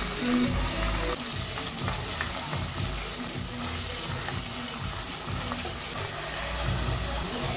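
Chopped onions and bell peppers sizzling in oil in a stainless steel pot, stirred with a spatula.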